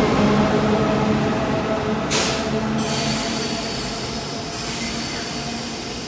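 Taiwan Railways train moving through a station: a steady tonal whine or squeal from the wheels and running gear, with a short sharp hiss about two seconds in, slowly fading.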